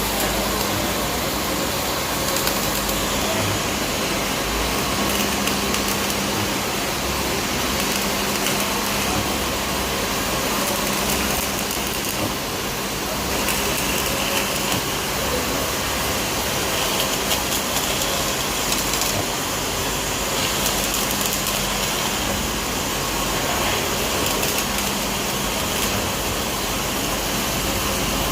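Electric arc welding on steel: a steady crackling hiss over the constant hum of the welding machine.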